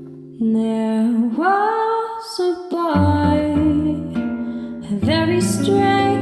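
A woman singing a slow jazz ballad over acoustic guitar accompaniment; the voice comes in about half a second in, over a fading guitar chord.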